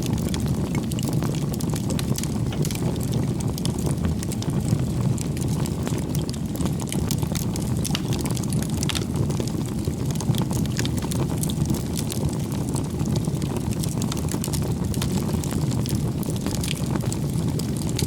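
Firewood bonfire burning: a steady low rush of flame with frequent small, sharp crackles and pops from the burning wood.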